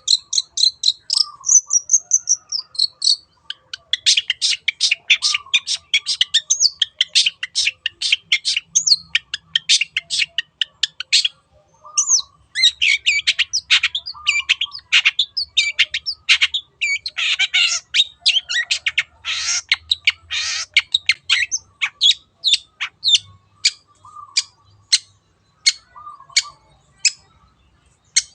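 Long-tailed shrike (cendet) singing a fast, scratchy run of short, sharp, high notes, with a short lower note every few seconds. The run is dense through the middle and thins to spaced single notes near the end.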